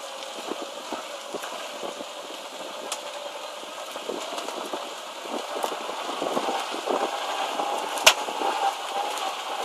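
A single sharp knock about eight seconds in, over a background of small ticks and crackles: the knock in the front axle of a Great Wall Hover H3 that recurs roughly every 10 to 13 seconds.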